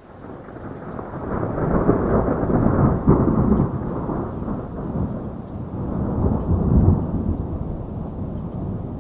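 A long, deep roll of thunder that builds from the start, peaks twice and slowly dies away, over steady rain.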